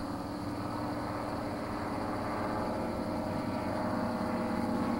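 Light airplane engine and propeller droning steadily, slowly growing louder.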